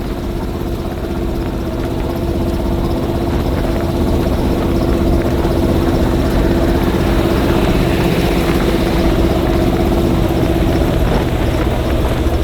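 Modified Gen V 6.2L LT1 V8 of a Jeep Wrangler running steadily under way, its engine note holding an even pitch and growing louder over the first few seconds.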